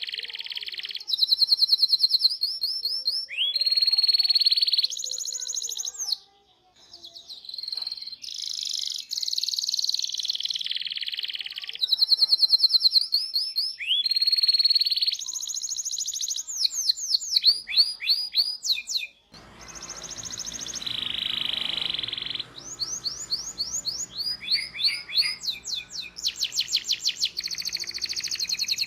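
Domestic canary singing a long, fast song of rolled trills and chirps, switching from one rapid run of repeated notes to the next every second or two. A low background hum comes in about two-thirds of the way through.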